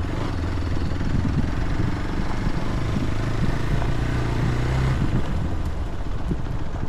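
A vehicle engine running at low speed over rough ground, with a steady low hum and scattered knocks. The engine note strengthens briefly about four seconds in, then eases off.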